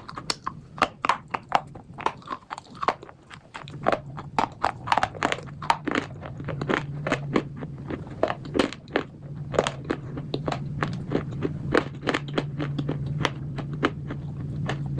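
A person biting and chewing crunchy slate bars: a quick, uneven run of sharp crunches. A steady low hum comes in about three and a half seconds in and grows louder toward the end.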